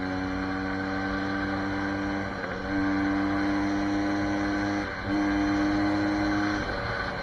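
SSR 150 dirt bike's single-cylinder four-stroke engine running at steady throttle, its pitch held even. It drops briefly about two and a half seconds in and again about five seconds in, then comes back a little louder each time, as on a gear change or throttle lift.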